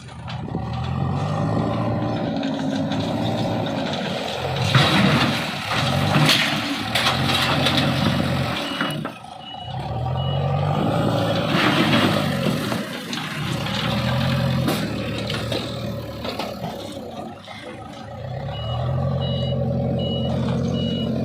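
Bulldozer engine working under load, revving up and dropping back again and again, with loud crashes and clanks around five to seven seconds in and again near twelve seconds. A reversing alarm beeps steadily for a couple of seconds, twice.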